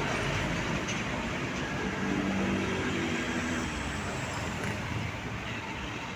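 Road traffic: a large truck's engine and tyres rumbling past, easing off slightly toward the end.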